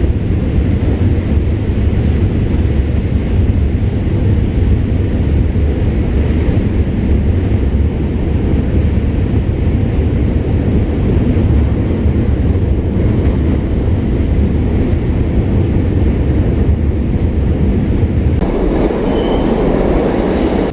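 A passenger train running on rails, a loud steady rumble that starts abruptly and shifts in tone a couple of seconds before the end.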